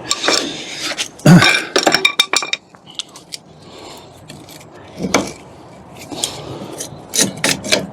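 Hand tools and metal brake parts clinking against each other in sharp, irregular clinks: a quick run about a second in, one midway, and another run near the end.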